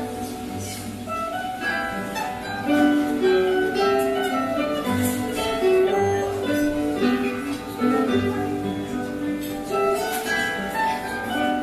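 A trio of acoustic guitars playing an ensemble piece, with a run of plucked melody notes over low bass notes.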